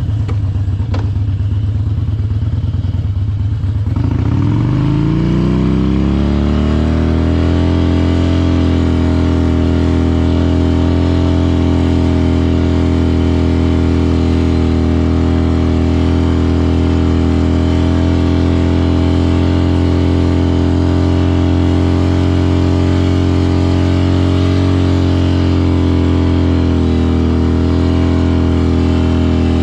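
Harley-Davidson Dyna's V-twin engine revs up about four seconds in and is then held at steady high revs through a burnout, the rear tire spinning in place.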